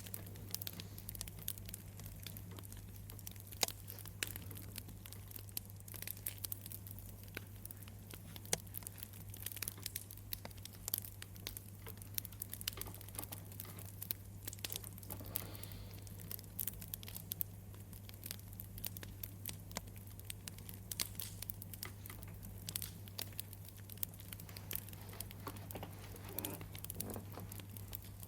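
Campfire crackling: irregular small pops and snaps over a steady low rumble.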